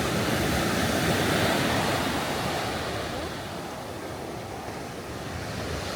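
Sea waves breaking and washing up a beach at high tide, the surf swelling over the first couple of seconds and easing off after the middle before building again.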